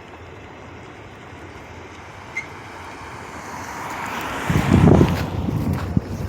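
Wind buffeting the microphone in heavy, uneven gusts from about four and a half seconds in. Before that there is a low steady rumble, with a rushing noise that swells over a couple of seconds.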